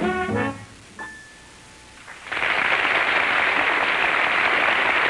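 The last chord of a jazz number with piano and band ends. After a short pause of about a second and a half, an audience breaks into steady applause that lasts to the end.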